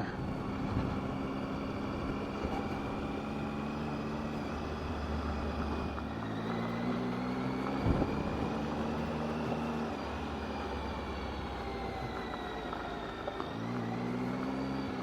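Motorcycle engine running steadily while riding on a gravel road, over a haze of tyre and wind noise; the engine note changes about six seconds in and again near the end. A single knock stands out about eight seconds in.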